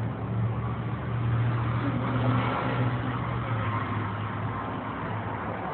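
Car engine running with a steady low hum that eases slightly in pitch partway through.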